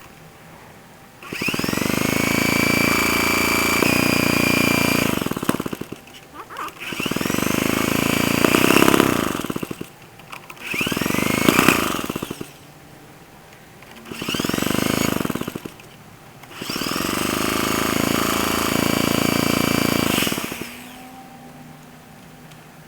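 A small Clinton 1.5 hp single-cylinder engine on a 1950s Bready walk-behind tractor, cold, catching and running a few seconds at a time before dying, five times over, its pitch rising as each run picks up speed. It cannot keep running, which the owner puts down to a bad spark plug.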